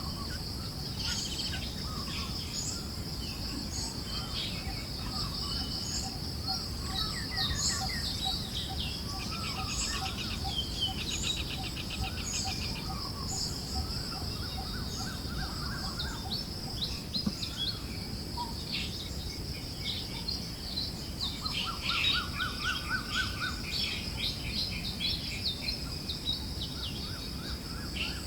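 Forest birds chirping and trilling, one call after another, over a steady high insect drone and a soft, even wind-like hiss.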